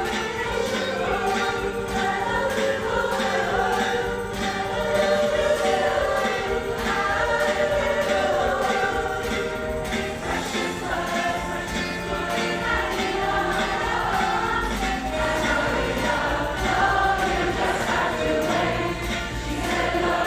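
Women's choir singing a song live, with a steady beat behind the voices.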